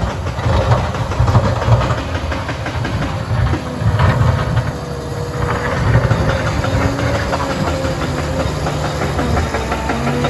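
Liebherr 746 crawler dozer's diesel engine running and working, with a steady whine that rises slightly about halfway through and a fast, regular ticking in the second half.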